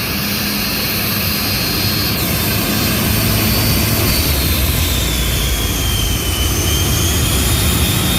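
Jet dragster's jet engine running loud and steady, with a high whine that slowly falls in pitch partway through.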